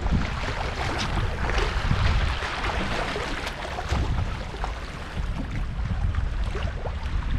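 Sea waves washing on the shore with wind buffeting the microphone: a steady rushing noise with gusty low rumbles.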